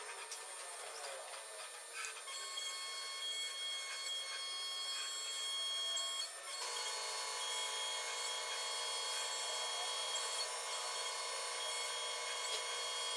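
Steady electric whine of a bird's-nest cleaning robot's motors, several high tones sounding at once, with a few light ticks. The whine changes abruptly about two seconds in and again about six and a half seconds in.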